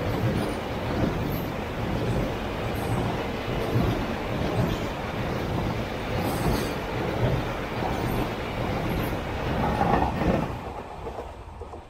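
Container freight train's wagons rolling past on the track: a steady rumble of steel wheels on rail with scattered clanks. It fades near the end.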